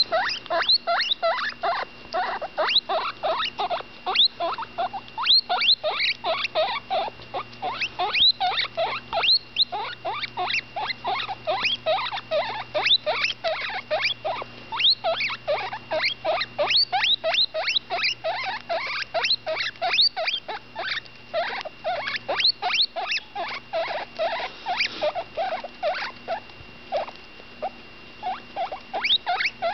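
Baby guinea pig squeaking over and over while eating: quick, short, high squeaks, several a second, without a break.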